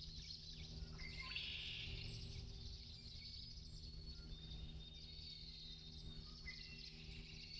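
Faint night-time nature ambience: soft chirping of insects and birds over a low steady hum, a little louder about a second in and again near the end.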